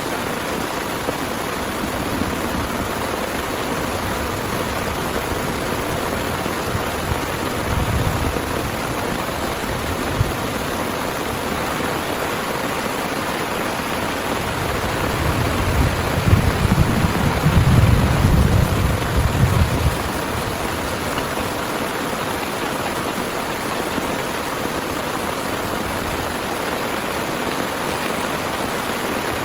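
Heavy rain falling with a steady hiss. A low rumble swells briefly about eight seconds in and again, louder, for several seconds past the middle.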